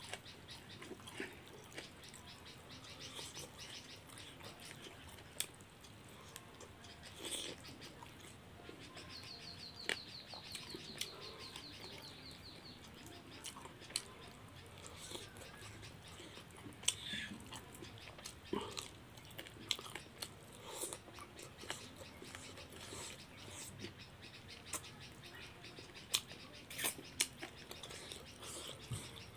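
Close-miked chewing and lip-smacking of someone eating chicken curry and rice by hand, with many short wet clicks and smacks. About nine seconds in, a rapid high chirping runs for about three seconds.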